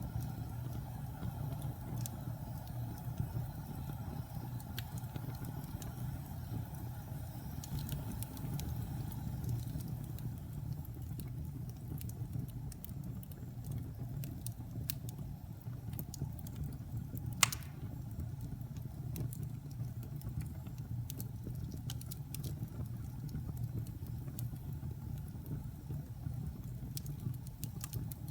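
Wood fire burning in a fireplace: a steady low rumble with scattered small crackles, and one sharp, loud pop about 17 seconds in.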